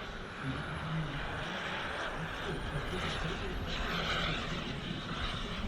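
Turbine engine of a radio-controlled model jet in flight: a steady rushing noise with a faint high whine that slowly slides in pitch.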